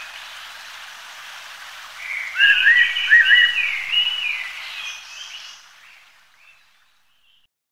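Wild birds calling over a steady background hiss. About two seconds in, a loud burst of several overlapping whistled and warbling calls comes; it thins out, and the sound fades away to silence near the end.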